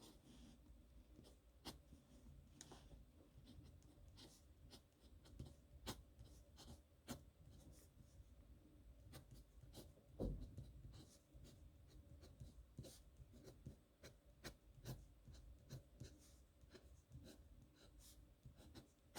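Pen scratching on paper in many short strokes as someone writes by hand, with a dull thump about ten seconds in.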